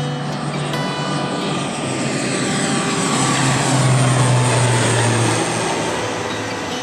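Airplane passing close by, its engine noise swelling to a peak about four seconds in and then fading, with a sweeping, whooshing sound as it goes over.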